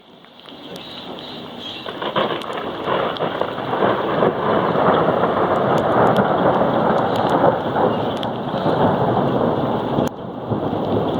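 Rain pouring during a thunderstorm, with a long rumble of thunder that builds over the first few seconds, holds loud, and drops off sharply near the end. Sharp ticks of raindrops run through it.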